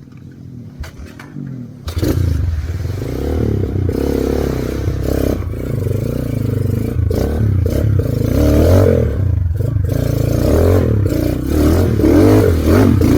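Motorcycle engine running, its pitch wavering up and down. It comes in loudly after a much quieter first two seconds.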